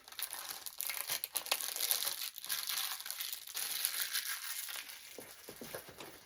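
Packaging being crumpled and handled: a dense crinkling crackle that eases off after about five seconds.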